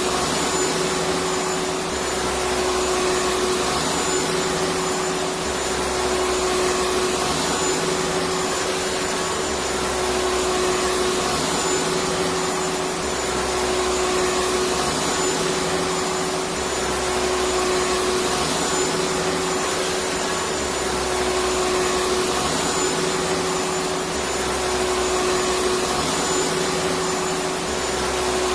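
Electric vacuum cleaner running steadily: an even rush of air with a constant motor hum and a faint high whine, and a low throb that comes and goes every few seconds.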